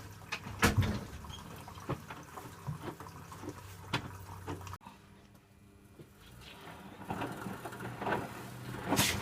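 Electrolux W455H commercial washing machine filling: water runs and splashes into the drum over a steady low hum, with scattered sharp knocks and splashes. The sound drops away suddenly a little under five seconds in, then builds back up.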